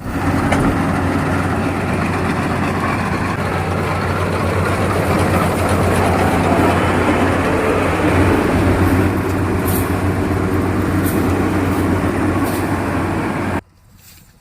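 Rice harvester machine running loudly and steadily, a constant low engine hum under dense mechanical clatter, cutting off suddenly near the end.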